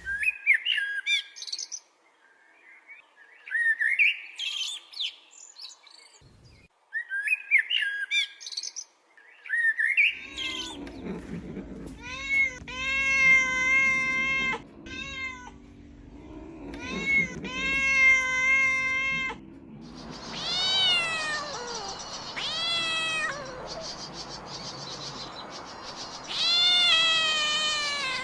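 A small bird chirps in quick rising bursts for about the first ten seconds. Then kittens meow: a run of long, level meows, followed by several meows that fall in pitch near the end.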